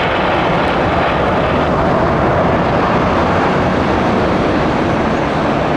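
Jet engines of an arriving Boeing 767-400 airliner, a loud, steady rushing noise.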